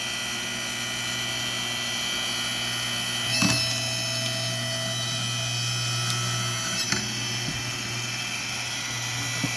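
Hydraulic log splitter's power unit running with a steady hum. Two sharp knocks come through it, about three and a half seconds in and again near seven seconds, as the log is worked.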